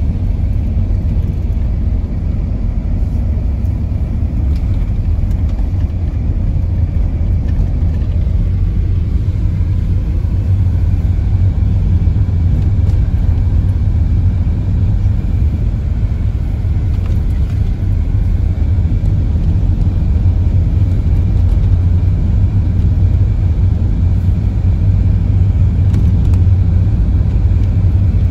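Steady low engine and road rumble heard from inside a car's cabin while driving, with the heater fan blowing.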